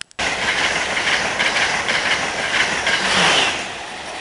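Amtrak Acela high-speed electric train passing at speed: a loud rush of wheel and rail noise that starts suddenly, holds about three seconds, then eases off near the end.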